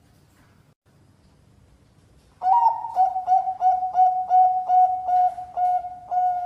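Bangkok-strain zebra dove (perkutut) cooing. After about two and a half seconds of quiet, it gives a rapid run of short, clear cooing notes at about three a second, each broken by a quick dip in pitch.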